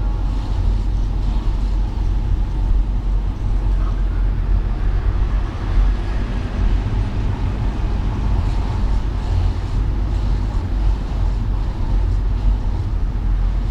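Car driving through wet city traffic: a steady, heavy low rumble of engine and road noise, with a hiss of tyres on wet road and rain over it.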